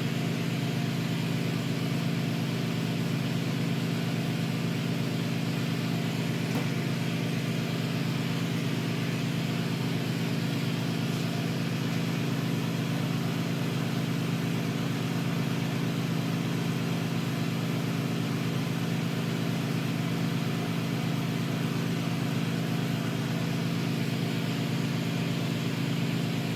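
A glass-working gas burner and its air blower running steadily: a constant low hum with an even hiss over it.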